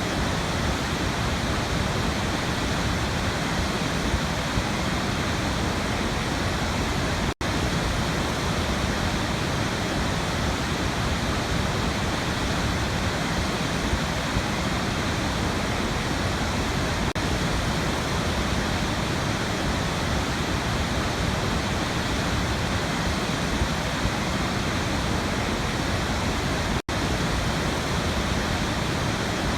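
Waterfall rushing in a steady, even roar of falling water, broken twice by a split-second gap.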